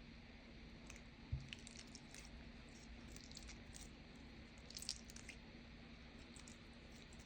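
Faint squishing and small crackles of slime being handled, with a short soft knock about a second in and a brief louder cluster of crackles near five seconds, over a low steady hum.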